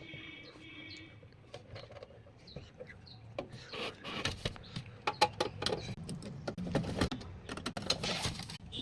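Irregular clicks, taps and scraping of small hard parts being handled during a battery charger repair, growing busier after the first few seconds. A faint high tone sounds in the first second.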